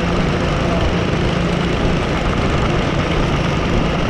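A vehicle engine running steadily at an even speed, with a constant low hum under a rushing, wind-like noise.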